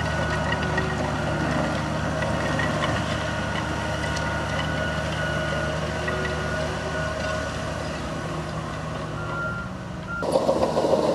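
Diesel engine of heavy earthmoving machinery running steadily, with a backup alarm's high tone sounding on and off. The sound changes abruptly near the end.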